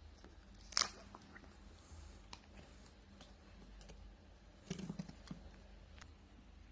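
Packaging being handled as a box is opened: a sharp snap about a second in, a short cluster of scrapes and knocks around five seconds in, and light ticks in between.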